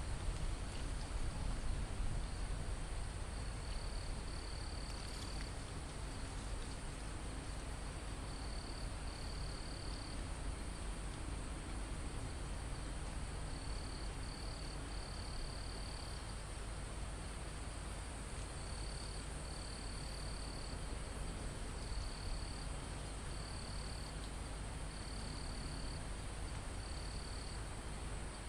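Forest crickets and other insects: one insect drone holds steady and high-pitched, while another insect calls in short trills that come back every couple of seconds. A low rumble of wind runs underneath.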